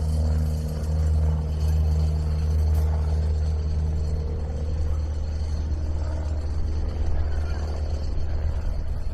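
Running machinery giving a steady low drone with a deep hum and fainter higher tones; the higher tones fade about halfway through, leaving a rougher rumble.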